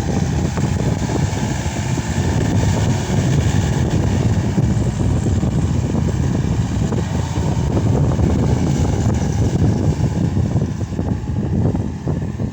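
Case SR200 skid steer loader's diesel engine running steadily.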